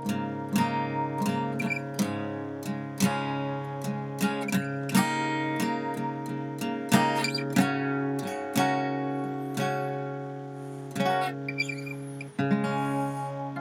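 Acoustic guitar music: chords strummed and picked, each stroke ringing on over a held low note.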